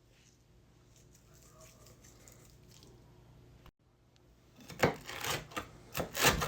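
Crispy fried hash brown crunching, a quick run of loud crackly crunches starting near the end; before that only faint background.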